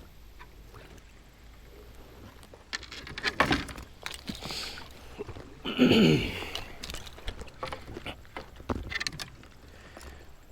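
Kayak sounds: a few separate splashes and knocks from the paddle and hull. The loudest comes about six seconds in and carries a short falling tone.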